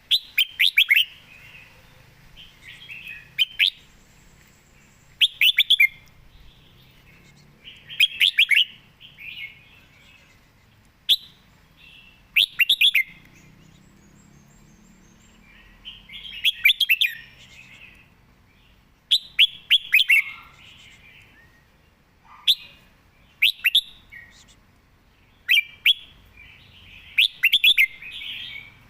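Red-whiskered bulbul singing short, quick phrases of clear whistled notes, one burst every one to three seconds.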